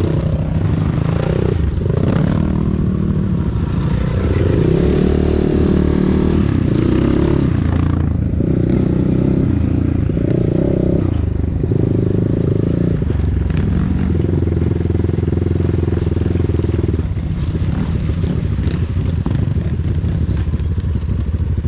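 Enduro motorcycle engine running under changing throttle, revving up and easing off several times.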